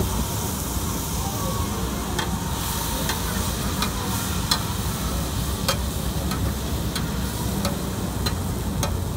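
Chicken kebab pieces and onions sizzling on a large flat iron tawa while a metal spatula stirs and scrapes them. From about two seconds in, the spatula clacks sharply against the griddle roughly once or twice a second.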